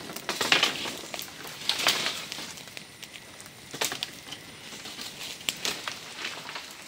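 Dry leaf litter and twigs crunching and rustling in irregular bursts, about one every one to two seconds.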